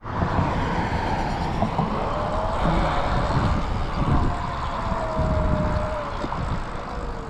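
A motor vehicle running, heard as steady noise with a faint whine that slowly falls in pitch.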